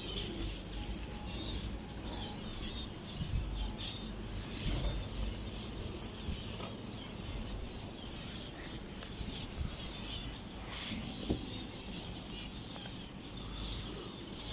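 Small aviary birds chirping continuously, a steady stream of many short, high overlapping chirps.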